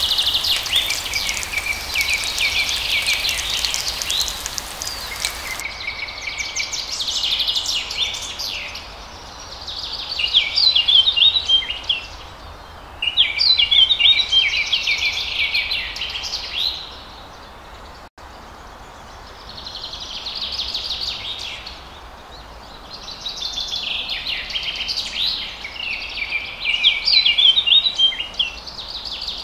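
Small birds chirping and singing in phrases of a few seconds, with short lulls between them.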